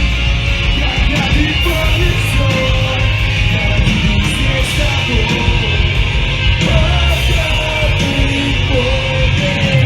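Emo/hardcore band playing loud and steady live: distorted guitars, bass and drums, with yelled vocals over them.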